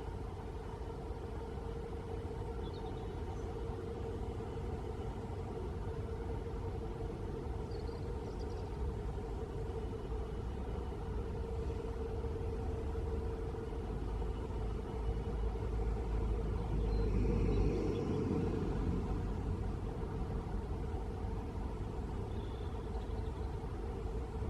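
Steady mechanical hum holding one pitch over a low rumble, the rumble swelling briefly about two-thirds of the way through.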